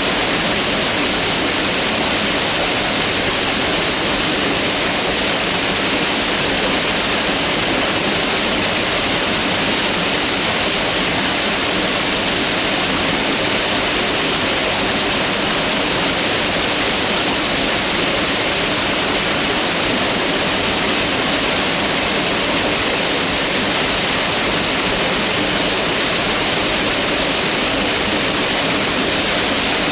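Mountain river rushing over rocks, a steady, loud, unbroken roar of water.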